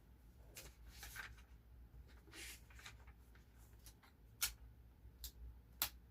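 Faint paper handling as a sticker is positioned on a journal page: soft rustles in the first second or two, then three short, light clicks near the end.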